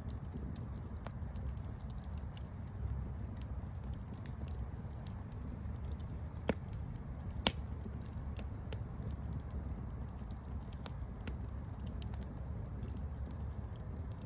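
Campfire burning: a steady low rumble with scattered sharp crackles, and two louder pops about a second apart near the middle.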